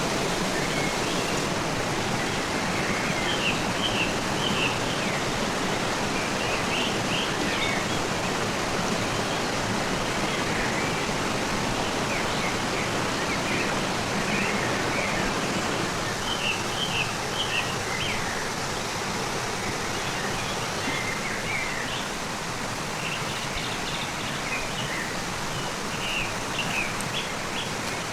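Steady rush of a fast-flowing river, with small birds chirping in short bursts over it every few seconds.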